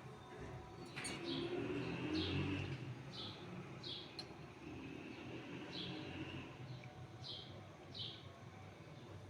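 A small bird chirping over and over in short, sharp, falling notes, about one or two a second, with a short pause about halfway through.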